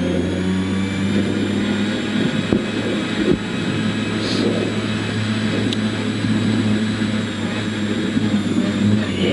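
Rally car's engine running at steady, low revs while driving slowly, heard from inside the caged cabin, with a couple of short knocks a few seconds in.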